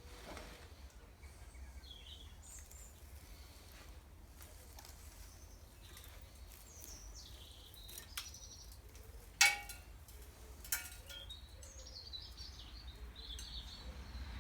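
Birds chirping on and off in the background. A sharp knock with a brief ring comes about nine and a half seconds in, with two lighter knocks a second or so either side of it.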